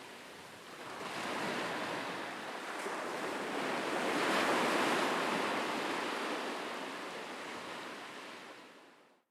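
Ocean waves washing in: a rushing surf sound that swells to a peak around the middle and fades out to silence near the end.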